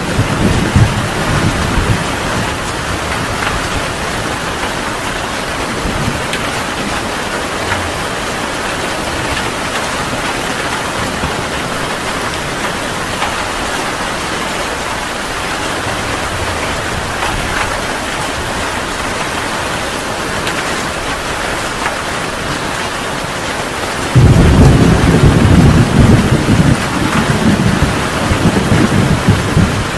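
Heavy rain falling steadily, with a loud low rumble of thunder breaking in suddenly near the end.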